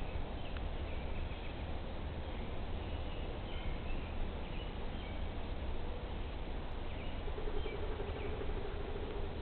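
Wild birds calling faintly in short phrases over a steady hiss and a low rumble. Near the end a low, stuttering trill joins in.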